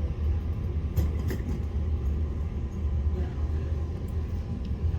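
Airport people-mover train running, a steady low rumble in the carriage, with a couple of light clicks about a second in.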